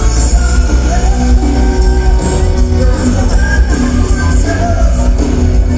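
Loud live band music with heavy bass and a singing voice.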